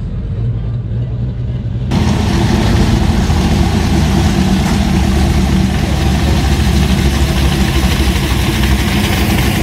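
Car engine idling steadily with a low, even rumble. About two seconds in the sound jumps abruptly louder and gains a wide hiss, as at a cut to another recording.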